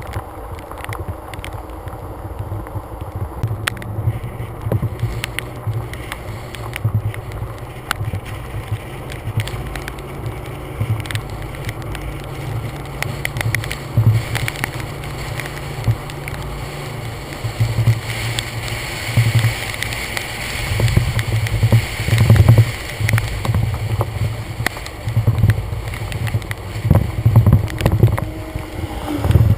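Storm-front wind buffeting a GoPro's microphone on a truck hood: a loud, gusting low rumble that swells and fades, with stronger gusts in the second half and scattered sharp ticks.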